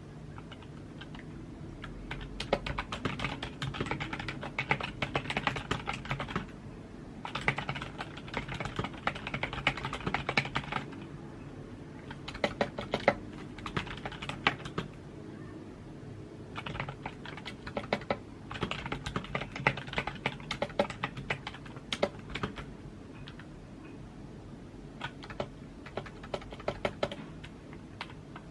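Computer keyboard typing: quick runs of key clicks in bursts of a few seconds, with short pauses between them.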